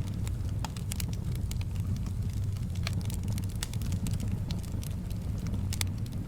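Wood fire crackling, with irregular sharp pops and snaps over a steady low rumble of soft wind.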